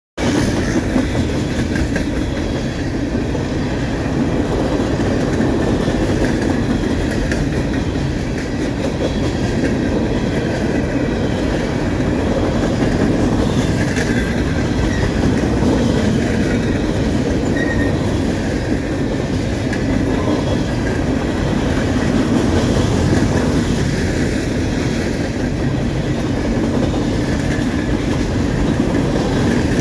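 Coal hopper cars of a Norfolk Southern freight train rolling past close by: the steel wheels on the rails make a steady, loud rolling noise that does not let up.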